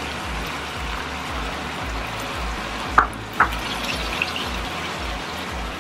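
Sauce sizzling in a non-stick wok as a spatula stirs it, with two sharp scrapes of the spatula against the pan about three seconds in.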